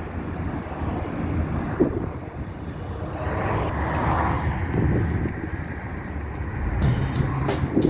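Steady low rumble of a car on the move, engine and road noise with some wind. A run of sharp clicks starts near the end.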